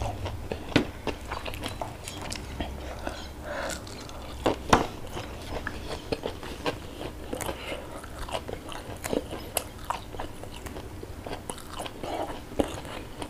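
Close-miked eating: chewing with crisp crunches and wet mouth clicks at an irregular pace, the loudest crunches about four and a half seconds in.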